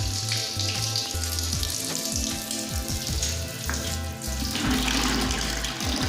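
Water spraying or running with a steady hiss, under background music with a stepping bass line.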